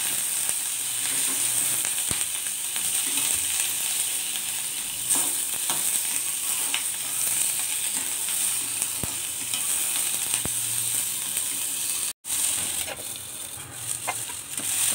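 Onion and green capsicum pieces sizzling steadily in a little oil in a kadhai, stirred with a spatula that clicks against the pan now and then. Near the end the sound breaks off for an instant and comes back softer.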